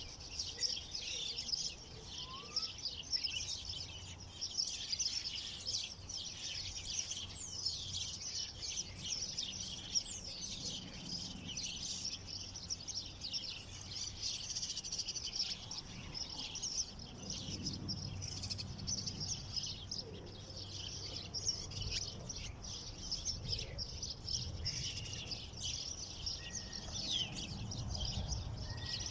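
Many small songbirds chirping and twittering at once, a dense chorus of overlapping short high calls, over a faint low rumble.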